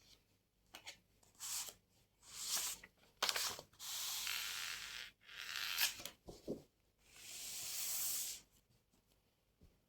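A series of rustling, scraping strokes, a few short ones and then several longer ones lasting about a second each.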